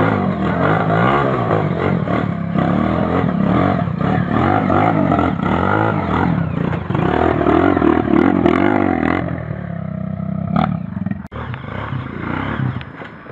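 Off-road trail motorcycle engine revving hard, rising and falling as the rider works the throttle through a difficult trail section, then settling to a lower, steadier note about nine seconds in.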